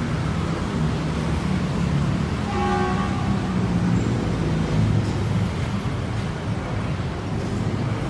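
Train running with a steady low rumble, and a short horn toot about two and a half seconds in.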